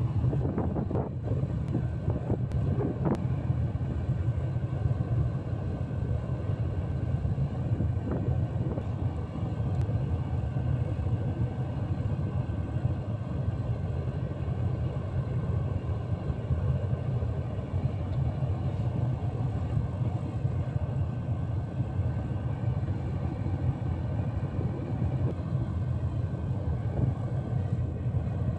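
Gas-fired foundry furnace with a fan blower running: the burner's steady low roar, with a few faint taps in the first three seconds.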